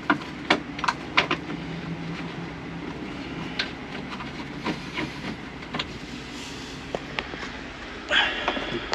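Scattered metal clicks and knocks of hand tools and seat-belt bolt hardware being worked, with a short louder burst near the end.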